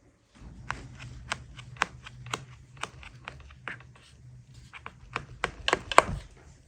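Knife chopping on a wooden cutting board: sharp taps about two a second, then a quicker, louder run of strokes near the end, over a low steady rumble.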